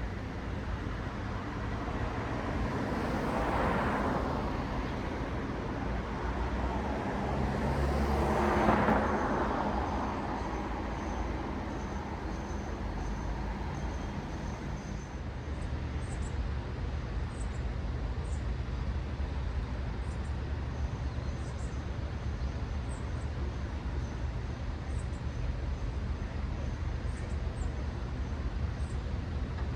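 Road traffic: two vehicles pass close by, about four and nine seconds in, each rising and fading as a wash of tyre and engine noise. A steady low traffic rumble runs underneath.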